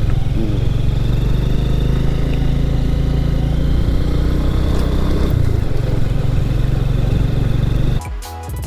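Single-cylinder engine of a 112 cc TVS Victor motorcycle running steadily while the bike is ridden along the road. The engine sound cuts off abruptly near the end, replaced by music.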